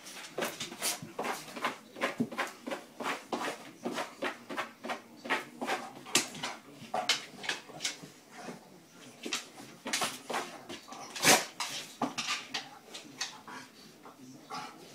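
Golden retriever scuffling with a lemon on a floor mat, pawing at it, rubbing its face on the mat and rolling over: a run of short, sharp dog noises, about two or three a second, the loudest about eleven seconds in.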